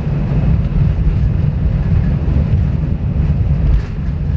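Steady low rumble of an Airbus A320's engines and airflow, heard inside the passenger cabin.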